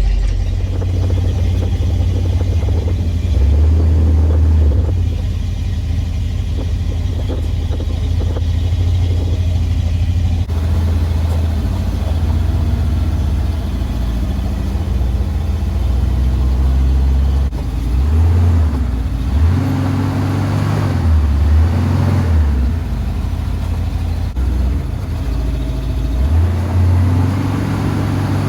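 Truck engine running with a steady low drone, revving up and back down a few times in the second half.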